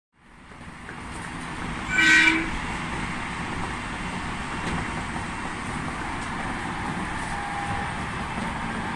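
Steady hum of an electric commuter train at a station platform, fading in, with a short horn toot of about half a second roughly two seconds in.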